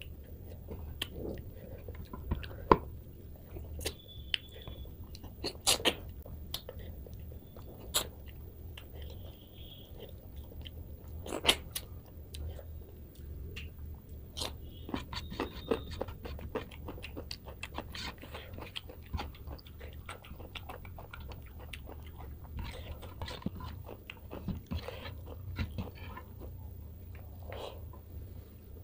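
Close-up eating sounds of a person chewing rice and rohu fish curry eaten by hand, with many short sharp mouth clicks and smacks scattered throughout. A steady low hum runs underneath.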